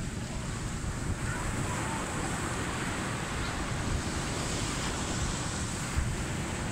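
Ocean surf washing onto the beach, with wind buffeting the microphone as a steady low rumble.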